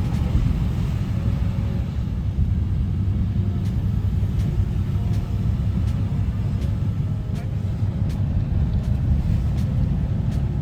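Steady low rumble of a vehicle on the move, heard from inside, with a few faint ticks.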